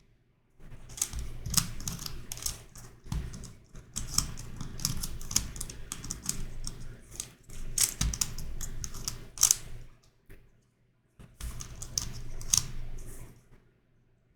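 YuXin Corner Helicopter 2x2 plastic puzzle cube being turned by hand: a fast, dense run of clicks and clacks as its layers and corners are twisted. There is a brief pause about ten seconds in before the turning resumes.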